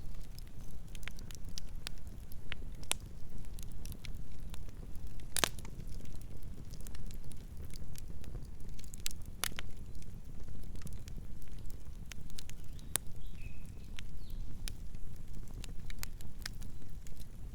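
Campfire burning: a steady low rumble of the flames with scattered sharp crackles and pops from the wood, the loudest about five and nine seconds in.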